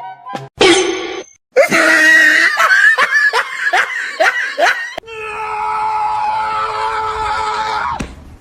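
Loud cries: a short cry, then a quick run of about eight falling cries, then one long held high cry that cuts off suddenly near the end.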